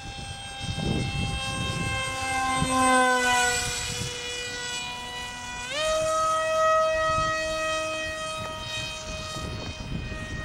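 Small electric radio-control foam jet's motor and propeller whining steadily. The pitch sags a little, rises sharply about six seconds in, then slowly eases off. Wind rumbles on the microphone underneath.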